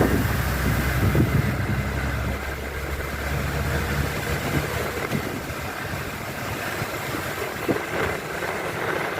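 A vehicle engine running close by in stopped traffic, a low steady rumble that fades away about four seconds in, over constant street noise.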